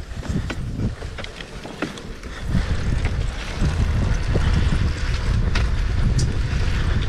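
Wind buffeting a helmet or GoPro camera microphone, an irregular low rumble with scattered small ticks, growing louder about two and a half seconds in.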